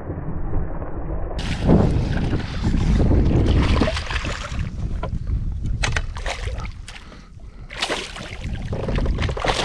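Wind buffeting the microphone on a fishing kayak, rising and falling in gusts, with scattered knocks and clicks of handling in the boat.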